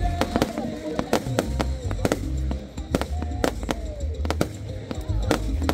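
Fireworks display going off: a rapid string of sharp bangs and crackles, several a second, over deep booms, with music playing alongside.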